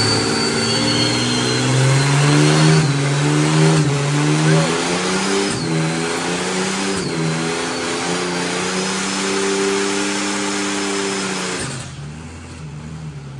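Compound-turbocharged Ford AU Falcon's Intech inline-six held at high revs in a stationary burnout, rear tyres spinning, with a thin high squeal above the engine. About 12 seconds in, the revs drop and it settles to a quieter, lower running note.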